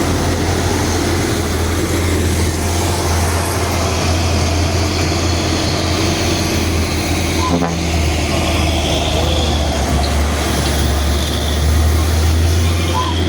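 Heavy diesel trucks labouring up a steep slope: a steady, loud, deep engine drone with the noise of passing traffic.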